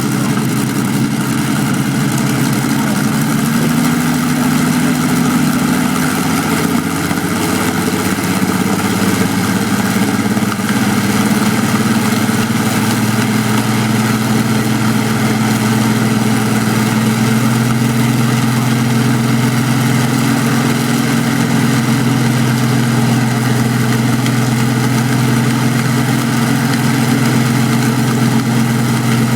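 Aeroplane piston engine running on a display stand, its speed wavering a little at first and then holding a steady note.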